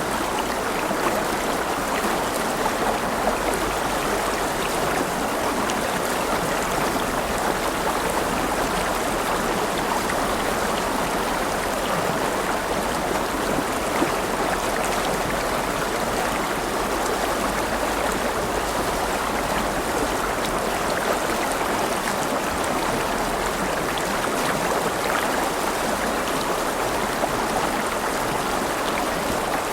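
River water flowing and burbling over stones in a steady, unbroken rush.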